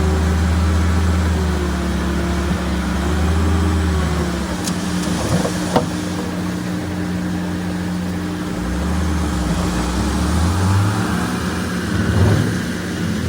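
Diesel engine of heavy earthmoving machinery working, its pitch rising and falling as it takes load, with one sharp knock a little before halfway through.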